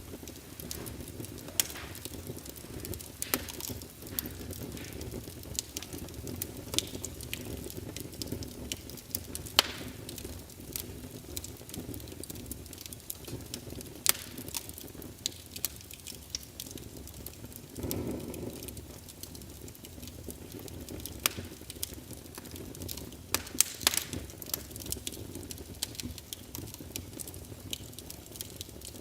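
Wood fire crackling: irregular sharp pops and snaps over a steady low rumble, which swells briefly about eighteen seconds in.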